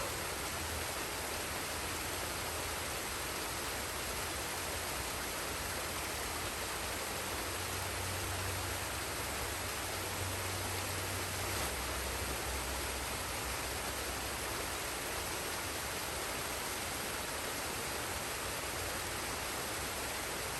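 Forest waterfall and stream: a steady, even rush of falling and flowing water.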